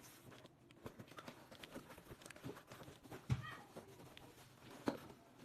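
Faint, scattered knocks and clicks, with a louder knock about three seconds in and another near the end.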